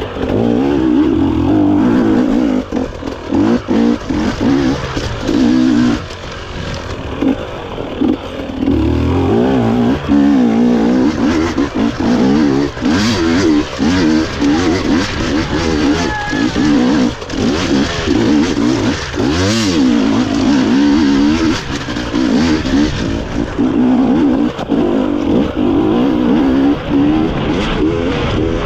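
GASGAS EC250 two-stroke enduro motorcycle engine revving hard under load. The throttle is opened and chopped again and again, so the note rises and falls constantly with frequent short drops.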